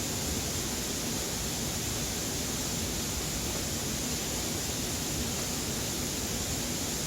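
A steady, even rushing noise that holds at the same level throughout.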